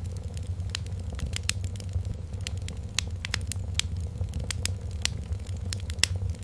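Wood fire crackling, with irregular sharp pops over a steady low rumble, and a faint steady tone held underneath.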